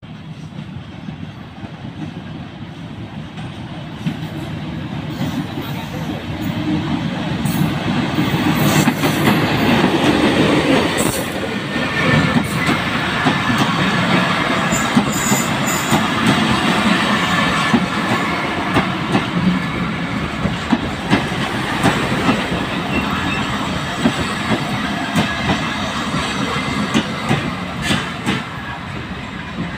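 Diesel-hauled Bangladesh Railway express passing at speed: the locomotive's approach swells to its loudest about eight to ten seconds in. A long rake of coaches then rushes by with a steady clatter of wheels over rail joints.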